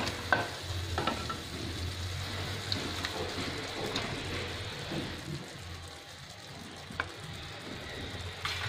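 Chopped tomato and onion sizzling steadily in a pan cooked without oil, as two raw eggs are cracked into a space cleared in the middle. A few sharp clicks come in the first second, and another about seven seconds in.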